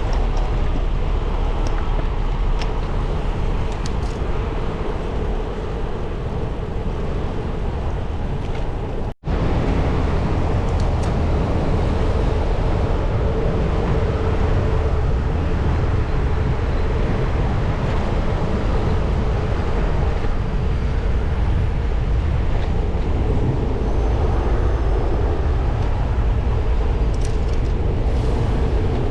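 Steady wind and rolling noise from riding a bicycle, heaviest in the low rumble, with a faint steady hum; the sound cuts out for an instant about nine seconds in.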